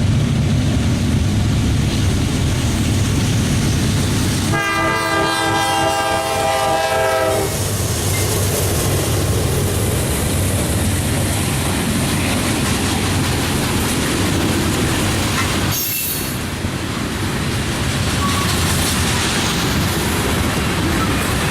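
A train passing close by with a steady rumble of diesel locomotives and wheels clicking over the rail joints. About four and a half seconds in, a multi-note locomotive air horn sounds for about three seconds.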